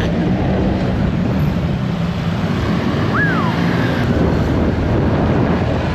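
Motorcycle taxi engine running at road speed, with wind and road noise rushing over the microphone. There is a brief high chirp about three seconds in.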